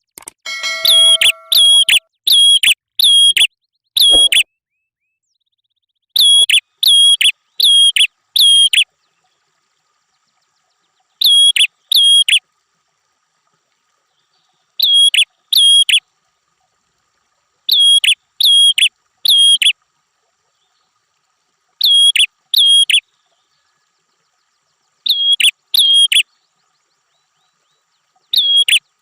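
A prenjak kepala merah, a small songbird, calling loudly: sharp, identical high notes in quick bursts of two to five, a burst every three to four seconds, with dead silence between.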